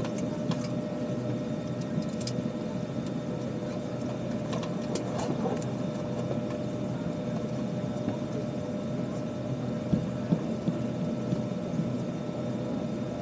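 Steady cabin hum inside an Airbus A320 on the ground, with a few light clicks and knocks scattered through it.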